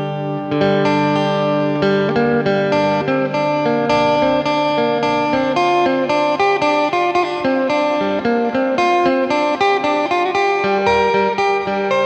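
Electric phin, a four-string Isan lute with a jackfruit-wood body, played amplified: a quick plucked melody over a steady low drone.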